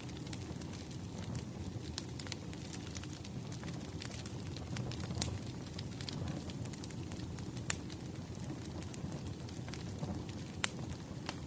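Wood fire crackling: a steady low rumble with scattered sharp pops and snaps, a few louder pops in the second half.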